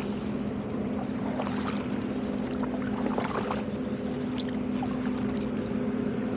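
Steady low hum of a nearby boat engine, most likely a tugboat's diesel, running at a constant pitch, with faint, scattered small splashes and drips of water.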